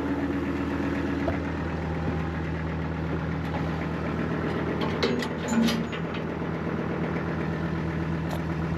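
An engine idling steadily, with a few short clanks about five seconds in.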